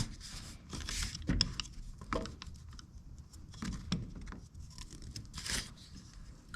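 Plastic coolant reservoir being slid up and worked out of the engine bay: scattered light knocks and scrapes of plastic against its mount and surrounding parts.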